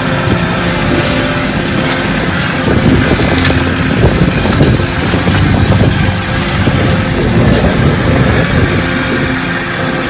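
Kubota LX2610 tractor's diesel engine running steadily while the grapple works fallen trees, with a run of irregular cracks and knocks in the middle.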